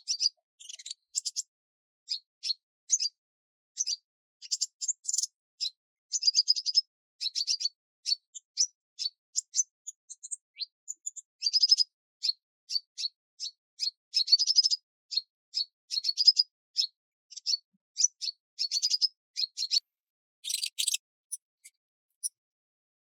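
Small songbirds chirping: a busy run of short, high chirps and quick trills with brief pauses between phrases.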